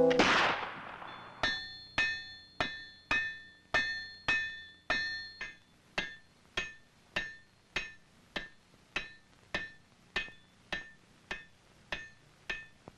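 A blacksmith's hammer striking hot wrought iron on an anvil in a steady rhythm of just under two blows a second, each blow ringing with a bright metallic ring. The smith is forging an iron bar into a flat scalp for a rifle barrel. A fading rush of noise in the first second comes before the blows begin.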